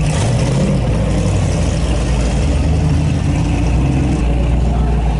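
Engines of classic cars and hot rods running as they cruise slowly past, with one engine briefly revving up and back down early on.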